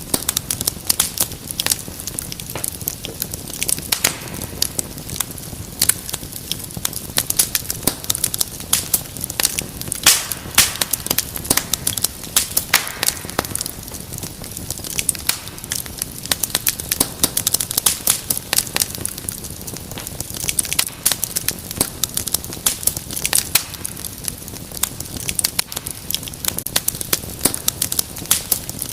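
Wood fire crackling in a fireplace: a steady stream of sharp pops and snaps over a low hiss.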